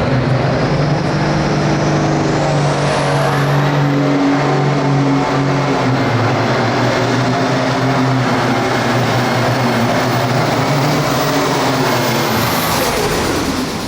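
Hot farm class pulling tractor's turbocharged diesel engine running hard under load, with a turbo whistle that rises a few seconds in and then holds. Near the end the pitch falls away as the engine comes off power.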